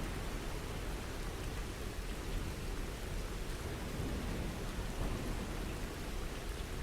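Steady, even rainfall, with a deep low rumble underneath.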